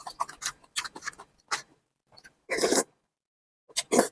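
Eating sounds close to the microphone: irregular wet clicks and crackles of chewing, with two longer noisy bursts about two and a half seconds in and near the end.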